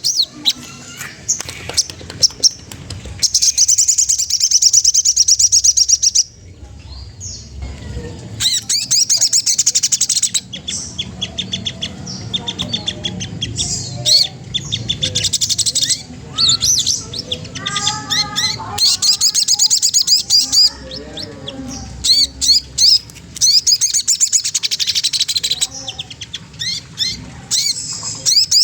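Sogon trotol, a spiderhunter, singing a challenge song used to provoke rival birds. It gives rapid bursts of high, sharp chattering chirps. In the middle stretch some lower, warbling notes mix in, and a few short pauses break it up.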